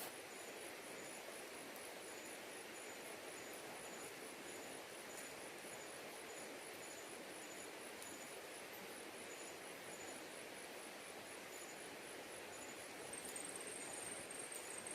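Forest insects chirping: a very high, evenly pulsed chirp repeating about three times a second, with a second, irregular chirp and, near the end, a steady shrill trill joining in over a faint hiss.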